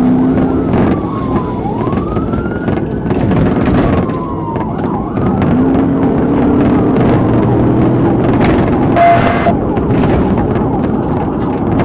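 Police car siren wailing, its pitch rising and falling slowly, over the cruiser's engine and road noise. A short beep with a burst of hiss comes about nine seconds in.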